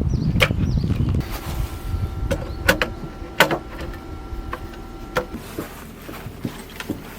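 A low rumble, then a run of clicks and knocks over a steady mechanical hum that runs about four seconds and stops suddenly.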